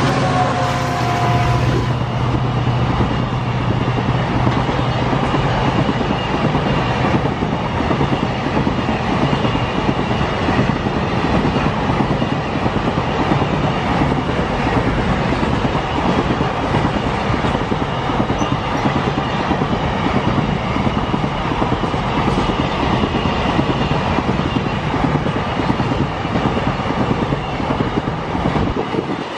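Double-stack container wagons rolling past close by at speed: a loud, steady rumble of steel wheels on rail with a rapid clickety-clack and a faint steady high whine. The diesel locomotive's engine drone falls in pitch and fades out in the first couple of seconds.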